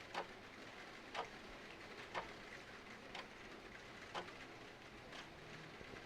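A mechanical clock ticking once a second over a steady hiss of falling rain, both faint.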